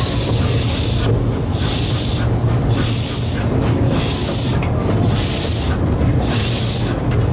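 Narrow-gauge steam locomotive working slowly, its steam exhaust hissing in long regular beats about once a second over a steady low hum.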